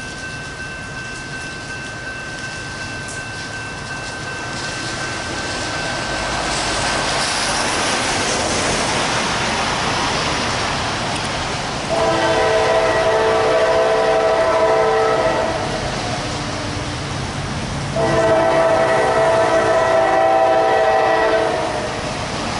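Train approaching with rail noise growing louder, then its locomotive air horn sounds two long blasts of a several-note chord, each about three and a half seconds, a few seconds apart.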